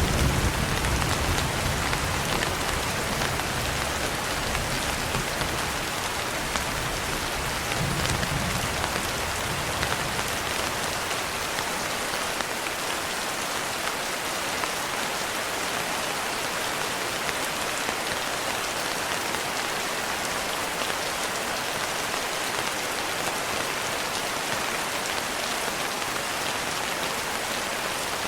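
Steady heavy rain, with a low rumble of thunder dying away over the first ten seconds or so.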